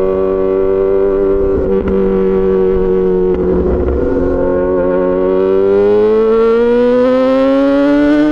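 Yamaha XJ6 S inline-four motorcycle engine through an SC-Project aftermarket exhaust, holding a steady note and then, a little past halfway, pulling up in pitch steadily as the bike accelerates in gear.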